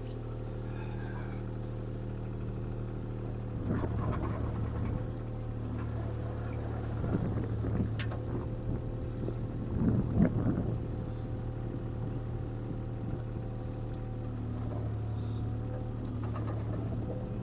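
A CAT 303C CR mini excavator's diesel engine runs steadily under work. Bursts of crackling and knocking come about four, seven and ten seconds in, with a sharp click near eight seconds, as the machine works among the trees.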